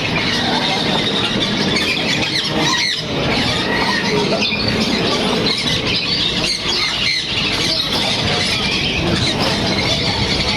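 Many caged birds chirping and squawking at once in a dense, steady chorus, over general market noise.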